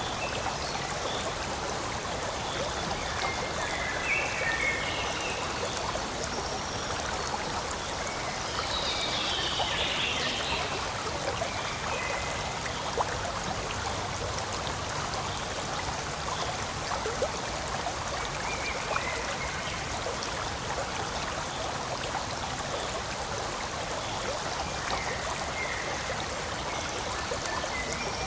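Forest stream flowing steadily, an even, continuous rush and trickle of water, with a few brief high chirps now and then.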